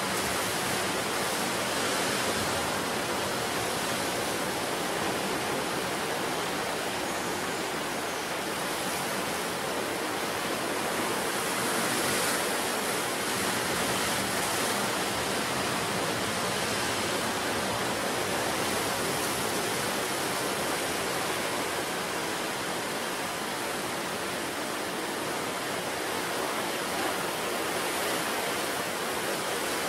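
Ocean surf washing onto the shore in a continuous rush, swelling and easing slightly.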